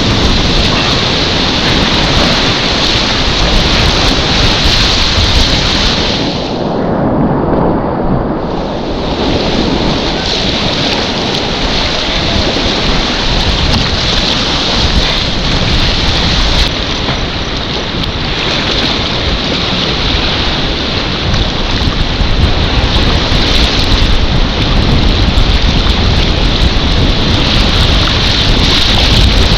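Loud, steady rush of river whitewater around a kayak, with water and wind buffeting the microphone. The sound goes muffled for about two seconds roughly seven seconds in.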